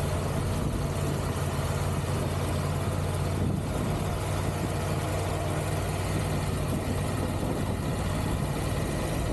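Triumph Tiger 1200 GT Pro's three-cylinder engine running at a steady, unchanging note, heard from the rider's position under a constant hiss of wind and road noise.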